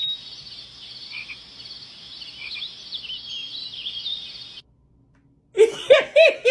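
A dense chorus of high, wavering animal chirps that starts abruptly and cuts off sharply about four and a half seconds in, like a nature sound clip edited into the soundtrack.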